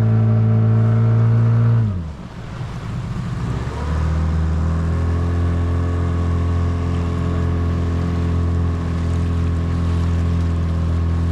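Motorboat engine running steadily, then throttled back sharply about two seconds in and opened up again about four seconds in, running steadily after that.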